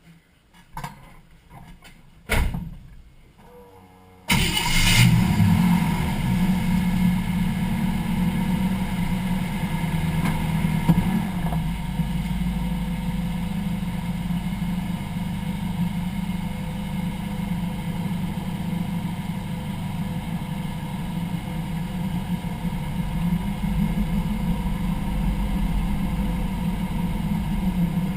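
A few clicks and knocks, then about four seconds in a vehicle's engine starts and runs steadily. A strong low hum and rumble is picked up from beneath the car, near the driveline and differential pinion.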